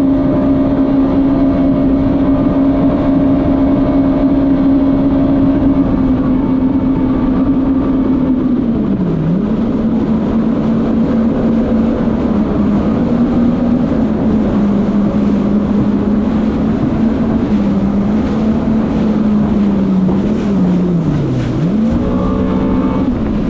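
Jet ski engine running hard at speed with a steady whine, over wind and water noise. The pitch drops and climbs back about nine seconds in and twice near the end as the throttle is eased and opened again.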